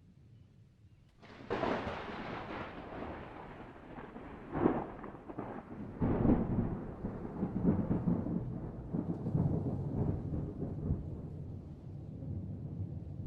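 Thunder: a sudden crack about a second in, followed by rolling rumbles with two more loud surges, settling into a long low rumble.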